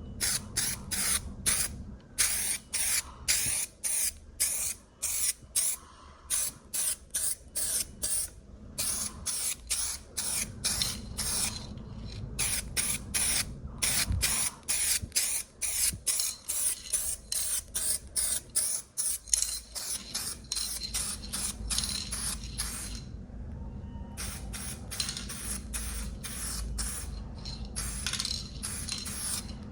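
UV primer being sprayed onto an aluminium car body panel as a light coat: many short hissing bursts, about two a second, with a brief pause about two-thirds of the way through.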